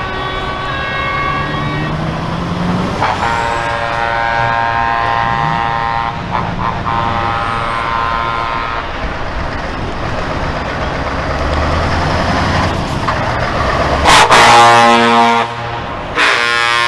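Trucks driving past, sounding their air horns again and again in long chord-like blasts over the rumble of diesel engines. The loudest horn blast comes about 14 seconds in and starts again near the end.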